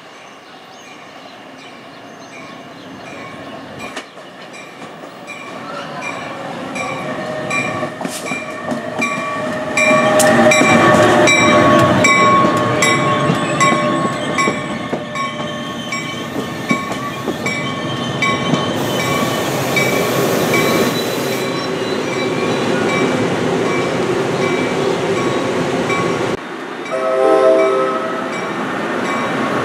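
NJ Transit ALP-46 electric locomotive pulling a train into the station, its running and wheel noise growing louder as it approaches and then passing close by. A bell dings steadily about twice a second.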